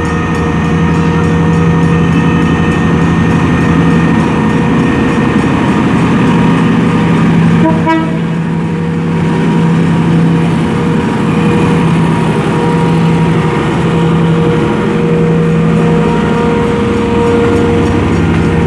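Diesel locomotive engine running steadily under power as a passenger train pulls out, with a short blip of tone about eight seconds in.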